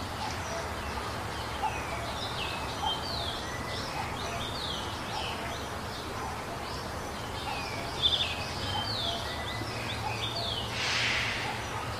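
Birds chirping: many short, repeated calls that sweep downward in pitch, over a low steady hum. A sharp click comes about two-thirds of the way through, and a brief hissing rush of noise comes near the end.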